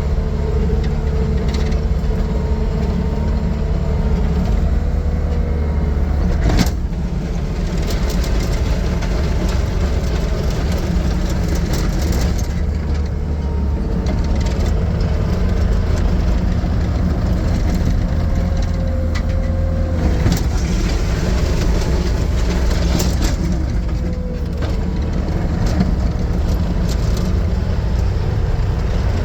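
The 4-cylinder Kubota diesel engine of a 2012 Bobcat T870 skid steer running steadily, with a single sharp knock about six and a half seconds in.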